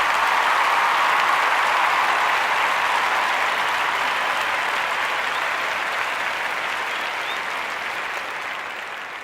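Crowd applause, steady, fading away near the end.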